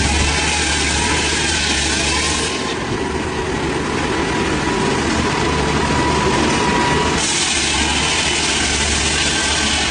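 A heavy engine running steadily while a saw cuts wood. The harsh cutting noise is loudest in the first two and a half seconds, eases off, then comes back strongly from about seven seconds in.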